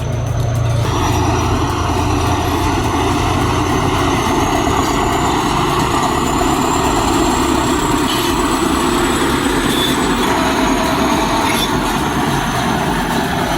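Heavy diesel machinery at work in the field: a B10 crawler bulldozer and a K-701 tractor with a disc harrow, engines running steadily under load with a continuous mechanical clatter and a faint high whine. The sound shifts about a second in, then holds steady.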